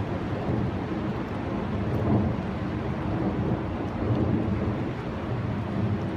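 Fast-moving floodwater of the swollen river rushing at a creek mouth: a steady, rumbling rush with hiss.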